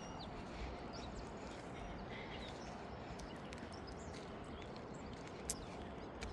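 Quiet outdoor morning ambience: a steady low background rumble with scattered short bird chirps, and a single sharp click about five and a half seconds in.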